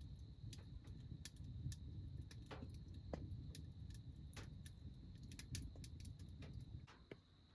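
Firewood crackling and popping as it burns: irregular sharp snaps over a low, soft rumble of the fire, with a faint steady high-pitched tone alongside.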